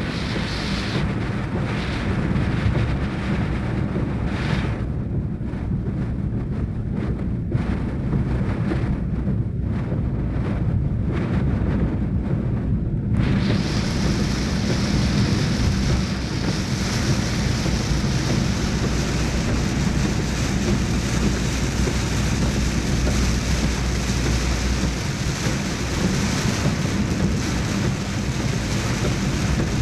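Heavy monsoon rain with wind buffeting the microphone over a steady low rumble. About thirteen seconds in, a loud, even hiss of rain cuts in suddenly and holds.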